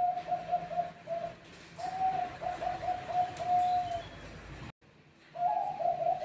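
Zebra doves of the Bangkok strain (perkutut bangkok) cooing: phrases of quick staccato coos on one steady pitch, a short pause about a second in, a longer phrase, then a brief dropout before the cooing starts again near the end.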